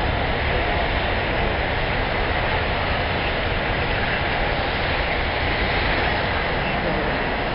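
Boeing 777-200ER's jet engines at takeoff power: a steady, loud noise with a deep rumble underneath.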